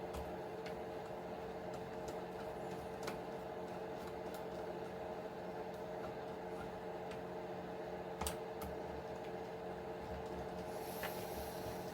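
A steady hum, with a few light clicks and taps of small parts being handled while an RC truck is taken apart, the sharpest about eight seconds in.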